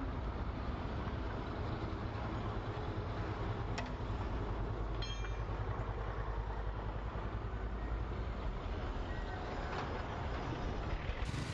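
A machine running with a steady low rumble, with a sharp click about four seconds in and a brief run of ticks about a second later.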